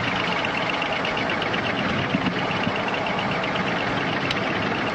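Steady cockpit background noise on a cockpit voice recording, an even rushing hiss with no voices, and a faint click about four seconds in.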